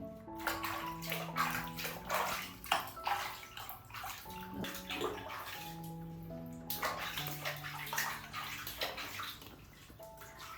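Bath water splashing in irregular bursts as a small animal is washed, over background music of held notes.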